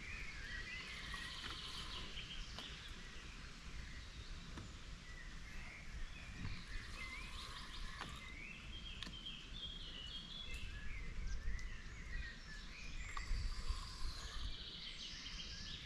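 A songbird sings repeated short chattering phrases, with a low rumble beneath and a few faint clicks.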